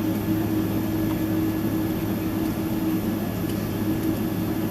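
Steady cabin hum inside a Boeing 767-300ER airliner: an even rush of air with a few constant steady tones underneath.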